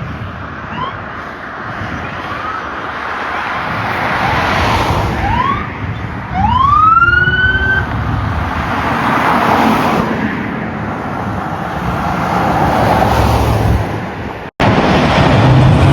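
Fire engine siren sounding while the apparatus runs on the road: a series of rising whoops, the longest climbing and then holding its pitch, over steady engine and road noise. The sound breaks off for a moment near the end.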